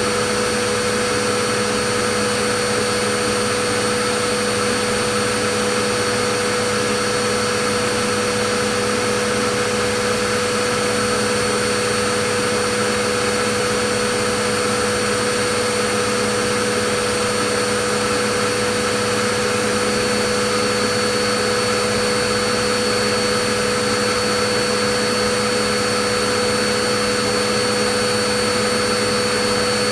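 Vacuum cleaner running steadily: a constant rushing of air with a steady motor whine, unchanging throughout.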